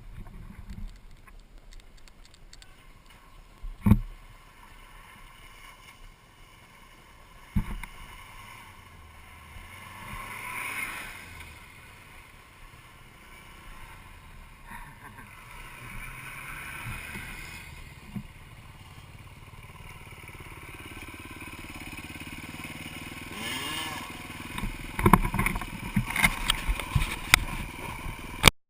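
Off-road vehicle engine running low and steady, with a few sharp knocks, growing louder over the last stretch and ending in a run of loud clattering knocks.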